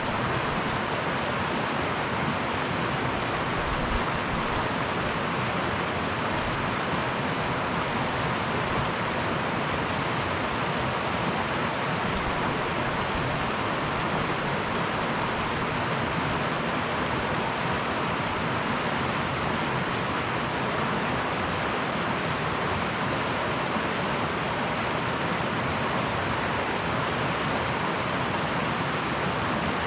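River water rushing steadily, an even, unbroken wash of water noise.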